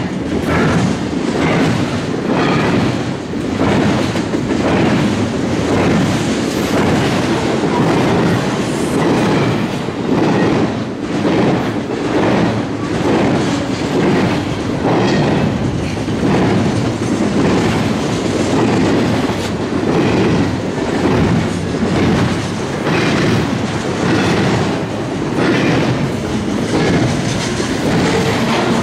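Double-stack intermodal freight cars rolling past close by: a steady rumble with wheels clicking over the rail joints, the sound swelling and easing about once a second as each car's trucks pass.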